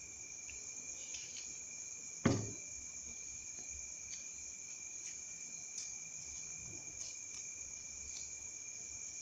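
Steady, high-pitched trilling of crickets that goes on without a break, with one sharp knock about two seconds in and a few faint small clicks.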